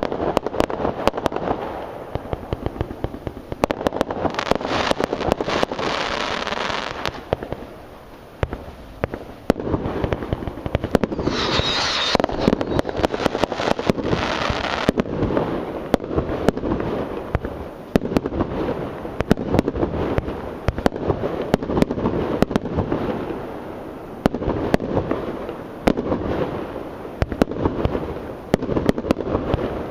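Professional aerial fireworks display: a rapid, unbroken string of bangs and shell bursts, with a brighter hissing stretch about halfway through.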